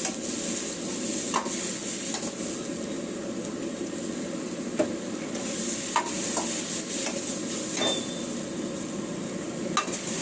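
Chilli chicken gravy sizzling in a pan while it is stirred, with sharp clinks of the metal spatula against the pan every second or two.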